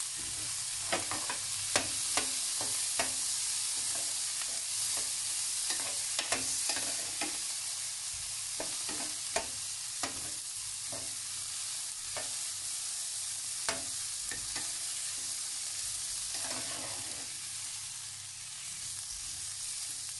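Diced boiled potatoes, speck, onion and garlic sizzling in a stainless steel pot. A metal spoon stirs them, clinking and scraping irregularly against the pot.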